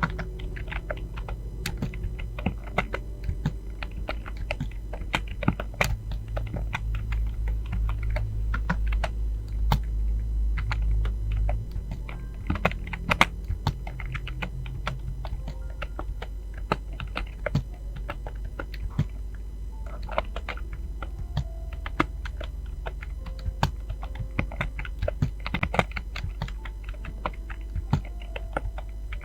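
Fast, continuous typing on a computer keyboard: an irregular stream of key clicks, over a steady low hum that swells for a few seconds in the first half.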